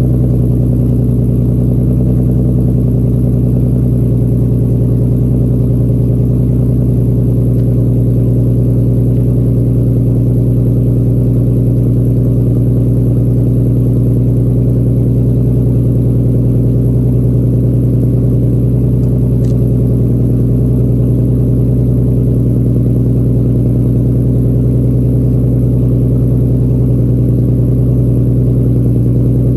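Nissan 370Z's 3.7-litre V6 running through a full ISR exhaust, idling steadily with a deep, even drone after a cold start.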